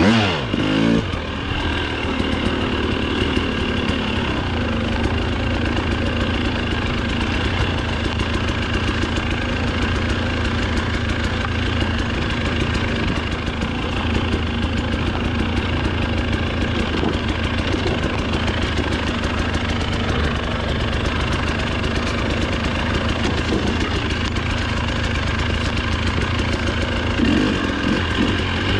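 Dirt bike engine running steadily at low revs. It revs briefly right at the start and again a couple of times near the end.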